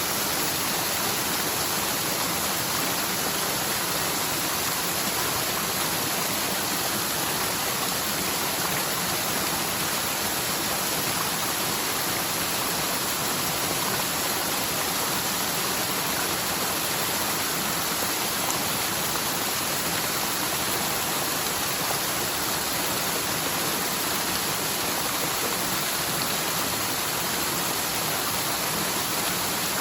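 A rain-swollen mountain stream rushing down over rocks: a steady, unbroken rush of water.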